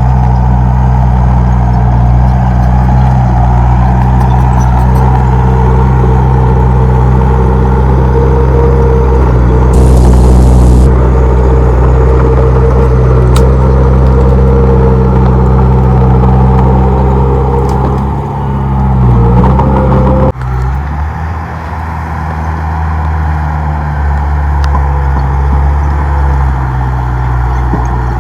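Komatsu D31P bulldozer's diesel engine running steadily under load. About two-thirds of the way through it rises briefly, then drops suddenly to a lower, quieter run.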